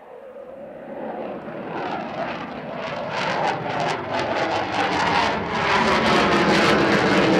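Panavia Tornado IDS jet, its twin RB199 turbofans growing steadily louder as the aircraft closes in, the hiss climbing higher and taking on a fluttering, crackly edge.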